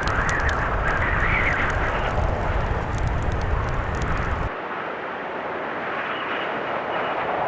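Blizzard wind blowing steadily with a deep rumble, with wood fire crackles snapping over it. About four and a half seconds in, the rumble and the crackles cut out abruptly, leaving a thinner, softer wind.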